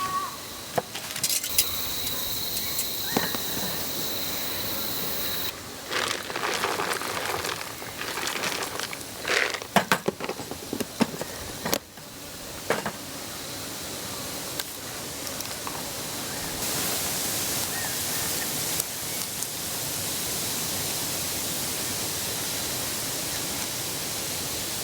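Camp food preparation: scattered clicks and knocks of cookware and utensils being handled over a steady hiss. A thin steady high tone, like an insect, runs for about four seconds near the start, and the hiss grows brighter about two-thirds of the way through.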